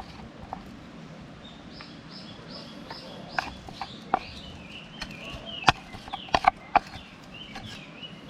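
A songbird singing a quick series of repeated high notes, then warbling, with a scatter of sharp knocks or clicks in the middle of the song.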